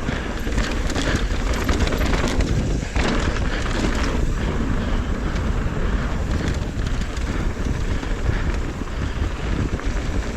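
Mountain bike rolling down a dirt trail: steady wind noise on the microphone over the rumble of the tyres, with scattered clicks and rattles from the bike.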